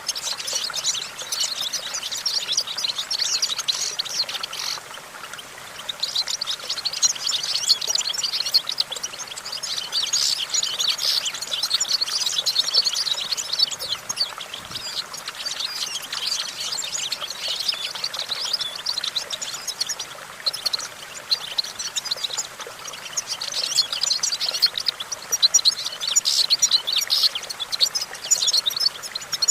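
European goldfinch singing a long, fast twittering song of rapid high notes, with a brief pause about five seconds in.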